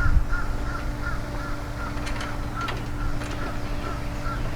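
A bird's short call repeated evenly, about three to four times a second, over a low steady hum, with a few light clicks of hardware being handled about two and three seconds in.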